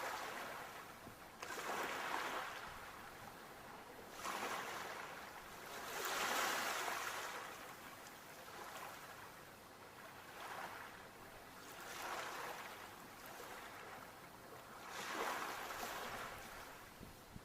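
Sea waves breaking and washing up a shore, a hiss of surf rising and falling in repeated surges every few seconds; the biggest surge comes about six seconds in.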